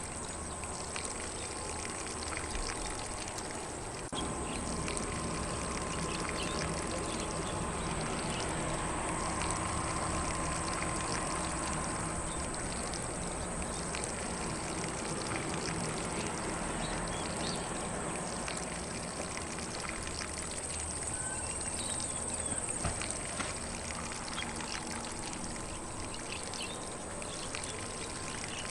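Lawn sprinkler spraying water over grass, a steady hiss and patter of falling water.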